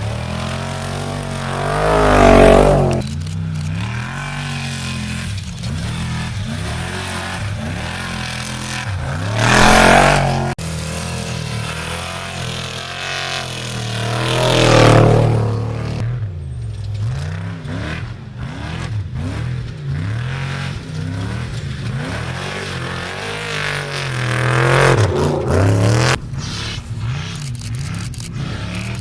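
Trophy Truck Spec off-road race trucks passing at speed, four loud passes in turn, the engine pitch dropping as each one goes by. Engine sound continues between the passes.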